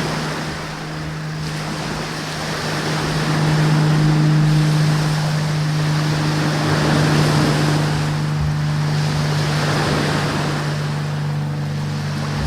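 A steady low hum under a rushing noise that swells and fades every few seconds.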